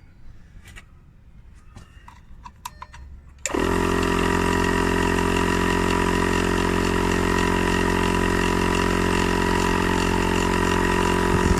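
A few faint clicks and knocks, then about three and a half seconds in a 12-volt portable tyre inflator switches on suddenly and runs steadily, its compressor pumping air into the freshly plugged tyre.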